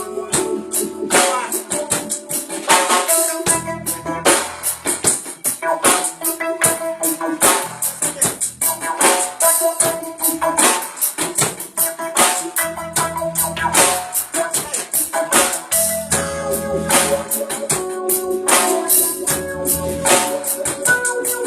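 A live band playing a groove: drum kit with a busy, even hi-hat or shaker rhythm, electric bass notes, and sustained keyboard chords.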